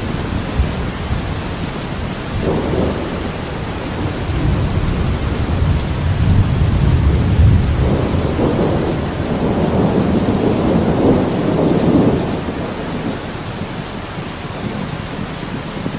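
Thunderstorm: steady heavy rain with a long, rolling thunder rumble that builds a few seconds in, is loudest in the middle and dies away near the end.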